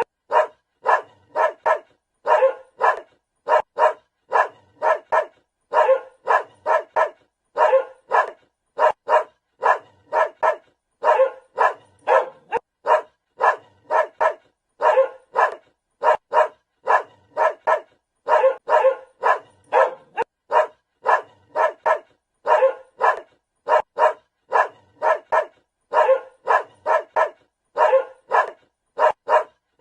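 Dog barking over and over: short, sharp barks in quick runs of two to four, with brief pauses between the runs.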